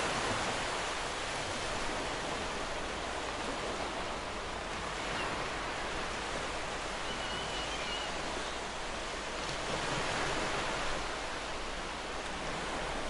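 Ocean surf washing on a beach as a steady rush. It swells gently near the start and again about ten seconds in.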